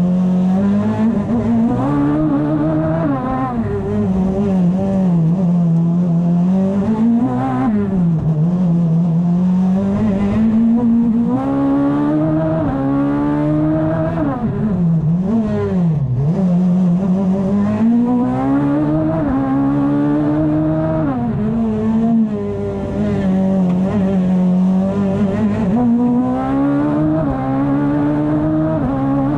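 Fiat 126 race prototype's engine heard from inside the cabin, revving up and falling back again and again as the car is driven hard through a slalom, with gear changes between third and fourth.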